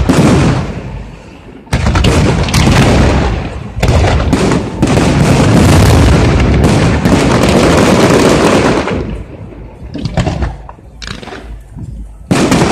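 Fireworks display: aerial shells bursting, building from single loud bangs into a dense, rapid barrage of booms and crackle for about seven seconds, then a few scattered cracks before another loud burst near the end.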